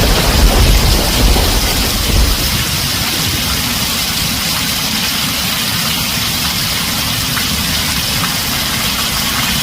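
Heavy rain drumming on a tin roof, a steady dense hiss. A deep rumble of thunder fades out over the first two to three seconds.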